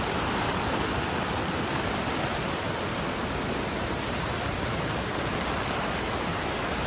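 Steady rush of heavy rain and running water, an even noise that holds at one level throughout.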